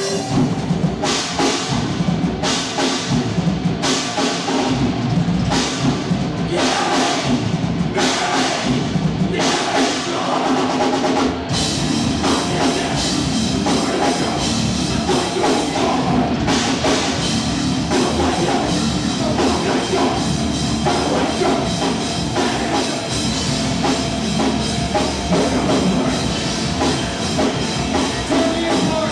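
Live rock band playing loud. The song opens with drums and guitars striking together on a steady beat, and the full band comes in about eleven seconds in.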